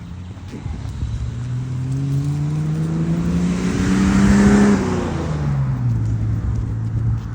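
A car driving past: its engine note climbs as it approaches, then drops as it goes by about four and a half seconds in, with tyre noise loudest as it passes.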